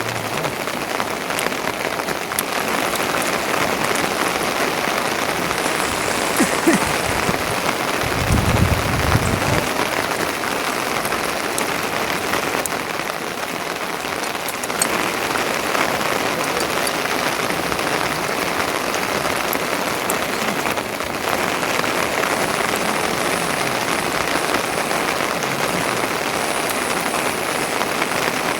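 Steady rain falling, a continuous even hiss of drops, with a brief low rumble about eight seconds in.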